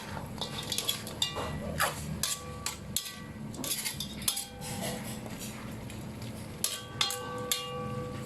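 Irregular clinks and knocks of metal and crockery kitchenware being handled, several of them leaving a short ringing tone.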